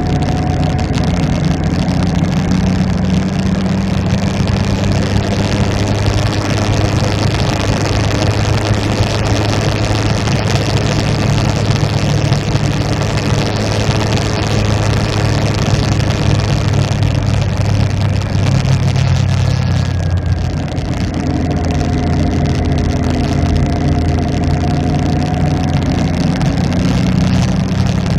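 Motorcycle engine running steadily under way, with road and wind noise. The engine note dips briefly about two-thirds of the way through, then picks up again at a slightly different pitch.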